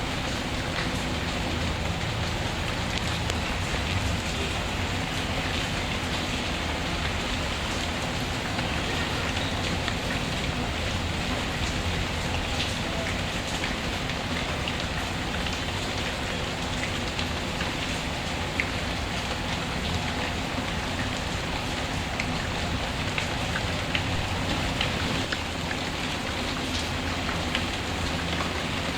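Steady, even rain falling, with many faint scattered ticks of drops or small crackles over it and a low rumble beneath.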